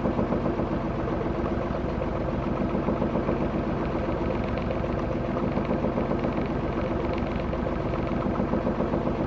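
Sailing yacht's engine running steadily with an even, fast pulse while motoring.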